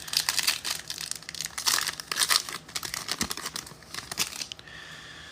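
Trading card pack wrappers being crinkled and torn open by hand: a dense, irregular crackling that thins out and fades near the end.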